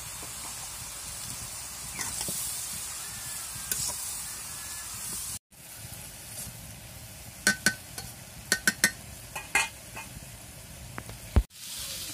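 Chopped vegetables sizzling as they fry in a hot iron karai. From about two-thirds of the way in, a metal spatula stirs them with a quick run of sharp clinks and scrapes against the pan.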